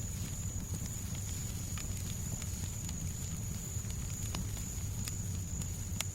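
Wood fire crackling in a fireplace: irregular sharp pops and snaps over a steady low rumble, with a thin, steady high-pitched tone in the background.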